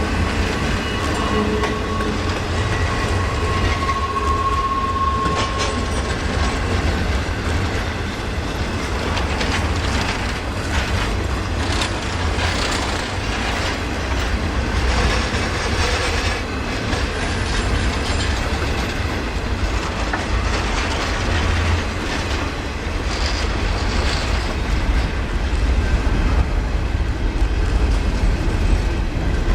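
Freight train cars rolling past at speed: a steady, loud rumble of steel wheels on rail with clickety-clack over the joints. A thin, squealing tone rides on top for the first few seconds.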